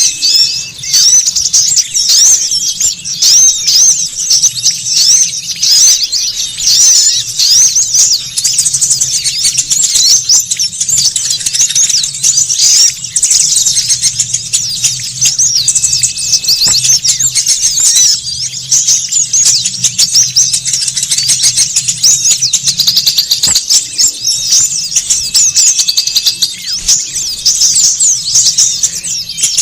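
A noisy mass of small songbirds chattering, a dense run of rapid high-pitched chirps and twitters without pause, as used in a bird-lure call. A faint steady low hum lies underneath.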